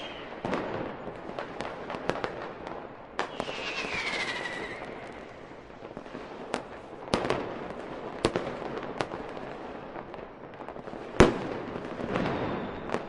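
Fireworks display: a string of sharp bangs of varying loudness over crackling, with a falling whistle about four seconds in and the loudest bang near eleven seconds in.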